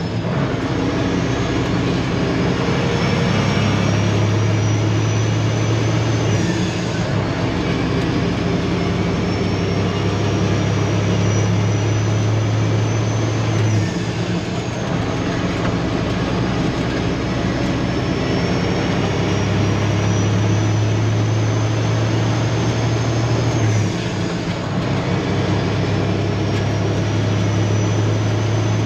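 Peterbilt semi truck's diesel engine with straight-pipe exhaust pulling under load: a deep, steady drone with a faint high whistle that climbs slowly with the revs. The whistle drops back and the drone dips briefly three times, about a quarter of the way in, halfway and near the end, as with upshifts.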